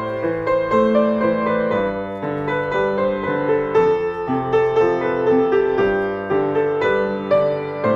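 Background piano music: a gentle, continuous melody of overlapping notes with chords.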